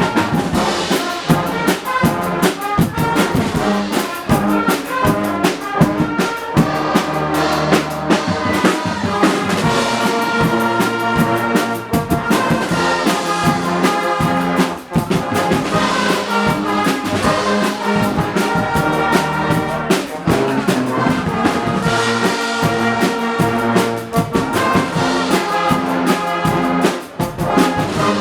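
Guggenmusik band playing loudly: trumpets and trombones over a steady drumbeat.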